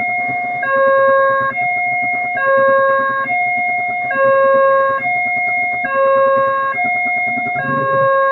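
Electronic level-crossing warning alarm sounding, alternating a high and a low tone, each held just under a second, over a low rumble of engines.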